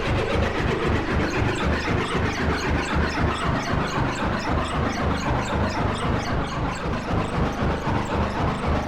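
Modular synthesizer: a triangle-wave oscillator whose pitch is stepped at random by a sample-and-hold, run through a wavefolder and filter with delay feedback, making a fast, continuous stream of jumping notes.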